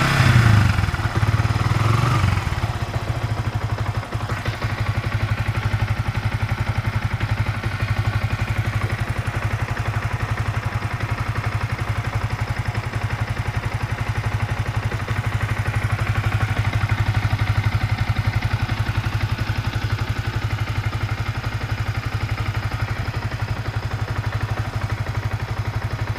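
Yamaha New Vixion Lightning's 150 cc single-cylinder engine, blipped briefly at the start and then idling steadily with a fast, even pulse and a mechanical clatter. This clatter is the strange engine noise the owner is showing at 16,600 km.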